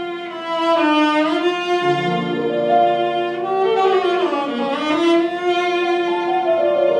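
Violin playing a slow melody in sustained notes, sliding between pitches, with lower notes sounding beneath it for a while in the middle.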